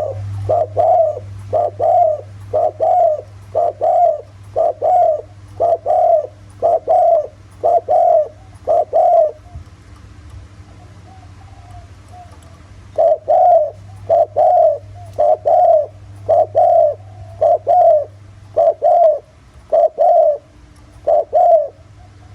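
Spotted dove cooing in the deep 'giọng thổ' voice prized by dove keepers: a quick series of short low coos, a bit more than one a second. The coos break off for a few seconds about halfway, then resume, over a steady low hum.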